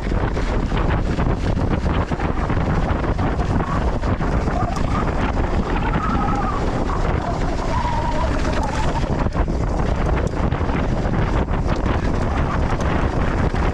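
Wind rushing over an action camera's microphone during a fast mountain-bike descent, with tyres running on loose volcanic dirt and a steady clatter of small knocks and rattles from the bike over rough ground. A faint wavering high tone comes in around the middle.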